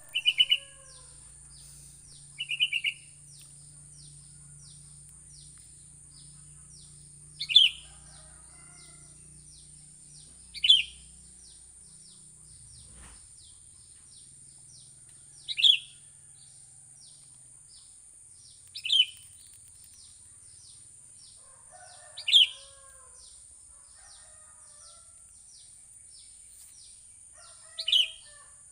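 Sooty-headed bulbul calling: two quick runs of bright notes near the start, then single sharp downward-sliding calls every three to five seconds. A rapid high ticking chirp and a steady high hiss run underneath.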